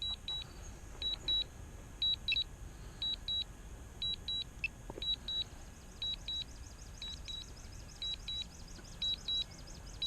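Drone remote controller giving a high electronic double beep once a second, a repeating warning alert, over a low steady rumble.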